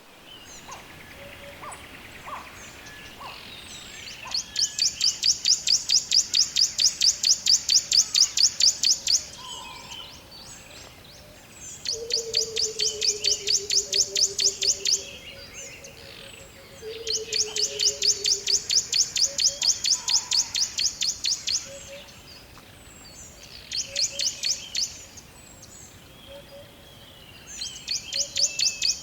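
Birds chirping in a forest: rapid, evenly pulsed high trills come in bursts of a few seconds with short pauses. A lower, falling whistled call is heard twice, under the second and third trills.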